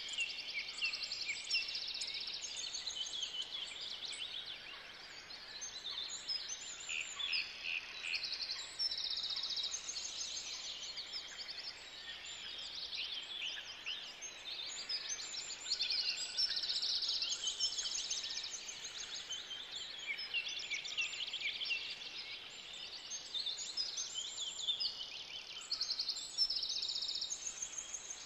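Birdsong ambience: several small birds chirping and singing many short, rapid trills that overlap continuously.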